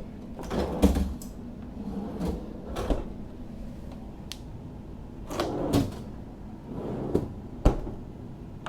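Galley drawer refrigerators and freezers being pulled open and pushed shut: a series of soft thuds and rumbles, with a sharp click as a drawer closes near the end.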